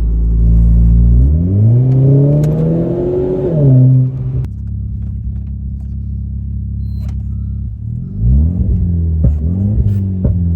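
Renault Clio 4 RS's 1.6-litre turbocharged four-cylinder engine pulling under acceleration, its revs climbing from about a second in and dropping near four seconds. It then runs at a steady speed for a few seconds before revving up again with a few sharp cracks near the end.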